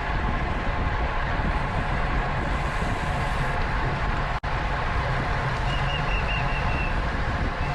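Steady rush of wind and road noise on a bicycle-mounted camera's microphone while racing. It drops out for an instant a little over halfway through, and a faint run of short, high chirps follows.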